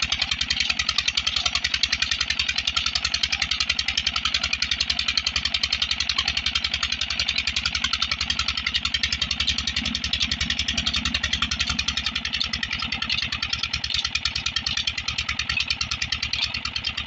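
Petter diesel engine running steadily, its firing beats evenly spaced.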